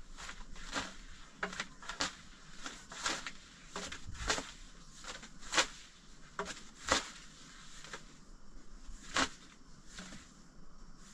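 A series of irregular sharp knocks and clatters, a dozen or so, with the loudest strikes about halfway through and again later on.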